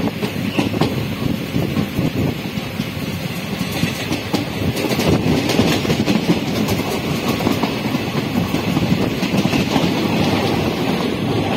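Train running along the track, heard from on board: a steady rumble of the wheels on the rails, with the clatter of wheels clicking over the rail joints.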